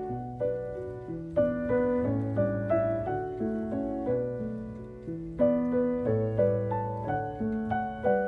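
Background piano music: a slow, gentle melody of struck notes, each fading before the next.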